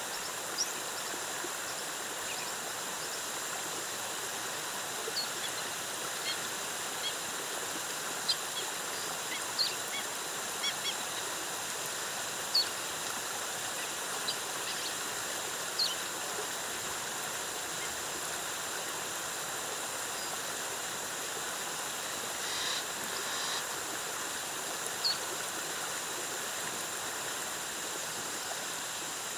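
Waterfall cascading with a steady rush of water, with scattered short high bird chirps every second or two and one brief, rougher bird call a little past two-thirds of the way through.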